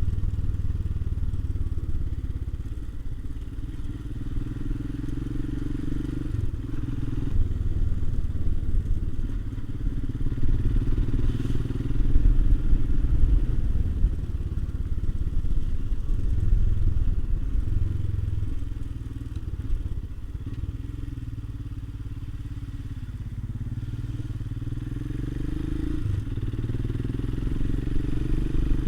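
Royal Enfield Himalayan single-cylinder motorcycle engine running on the move, its note rising and falling with the throttle. Near the end it climbs steadily, then drops suddenly.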